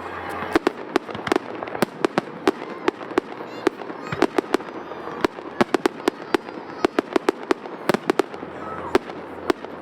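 Fireworks display: a rapid, irregular string of sharp bangs from shells bursting, several a second, with a brief whistle about three and a half seconds in.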